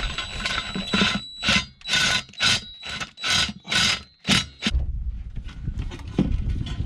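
Hand ratchet with a T40 Torx bit worked back and forth in quick strokes, about two a second, turning out an intake bolt. It stops a little under five seconds in, and a low rumbling handling noise follows.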